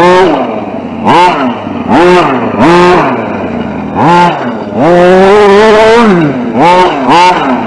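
RC short-course truck's motor revving in repeated throttle bursts, its pitch jumping up sharply and sliding back down about eight times, with one longer run at high pitch in the second half.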